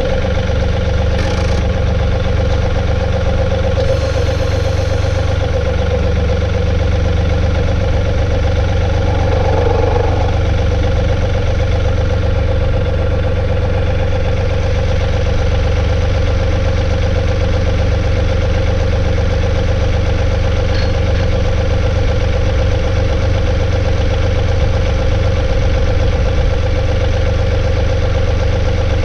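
John Deere 2032R compact tractor's three-cylinder diesel engine idling steadily at an even pitch.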